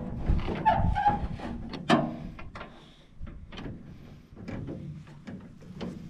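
Irregular metallic knocks and clanks of hand tools working a new, too-tight part on a combine header's cutter bar, with the loudest strikes at the start and about two seconds in.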